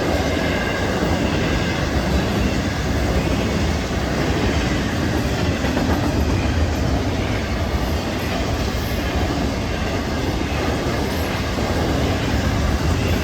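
A train's cars rolling steadily past close by: a continuous, even rumble of steel wheels on rail that holds at one loudness throughout.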